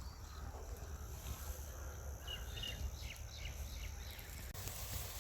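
Outdoor forest ambience: a low wind rumble, with a few short high bird chirps about two to three seconds in and a thin steady high tone, like an insect, that stops abruptly near the end.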